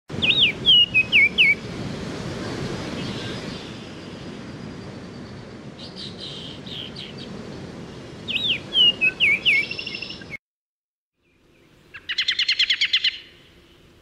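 Baltimore oriole singing: two short phrases of clear whistled notes that slide up and down, mixed with quicker chattering notes, over a low background hiss. After a brief silence, a short rapid trill of a bird near the end.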